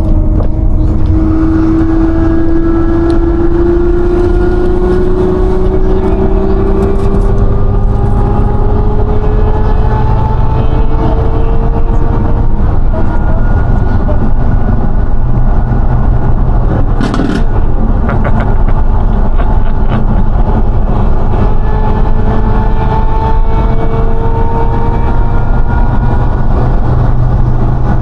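Lamborghini Aventador SVJ's V12 engine and exhaust under steady acceleration, the note climbing slowly in pitch, dropping once near the middle as it shifts up, then climbing again. A short burst of noise a little past halfway.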